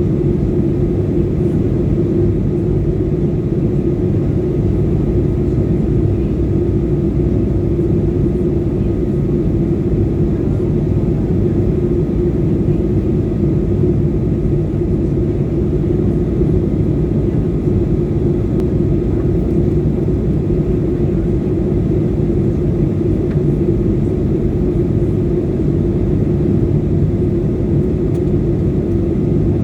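Airliner cabin noise in flight: a steady, unchanging low rumble of engines and airflow, with a constant hum on top.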